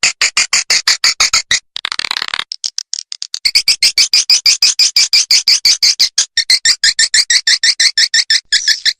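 Swiftlet lure-call recording: fast trains of short, high twittering chirps, about ten a second, fainter and sparser for a moment about two and a half seconds in. It is the playback sound used to call swiftlets into a nesting house.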